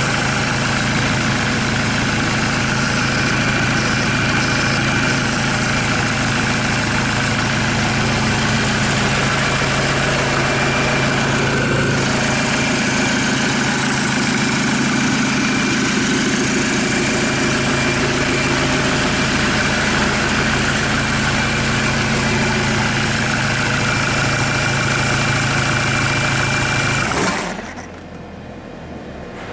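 Kia D4CB 2.5-litre four-cylinder common-rail diesel engine idling steadily out of the car, then shut off near the end, its sound dying away within about a second.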